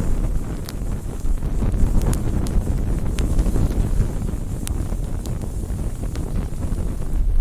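Wood campfire burning, with sharp, irregular crackles and pops over a steady low rumble.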